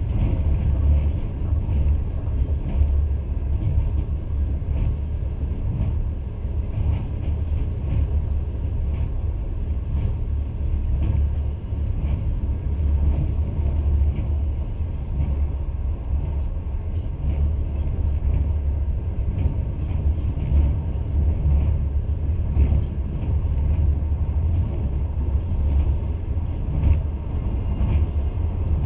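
Passenger train running at speed, heard from inside the carriage: a steady low rumble with faint irregular clicks from the wheels on the track.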